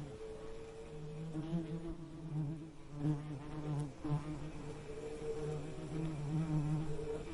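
Bees buzzing steadily, the pitch wavering up and down as the buzz swells and fades.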